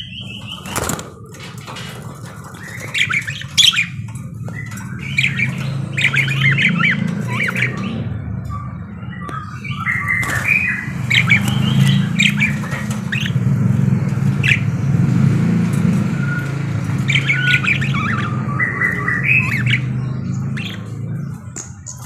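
Parakeets chattering in rapid bursts of chirps and squawks, the bursts coming in clusters, over a steady low hum.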